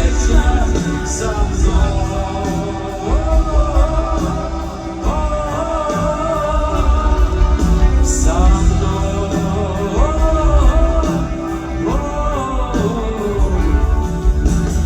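Rock band music with heavy drums and bass under a melody that slides up into held notes and falls away again, phrase after phrase.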